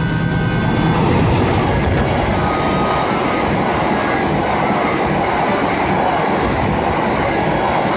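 Passenger train passing close by: a diesel locomotive's engine at first, then a steady, loud rumble and rattle of coach wheels on the rails as the stainless-steel carriages go past.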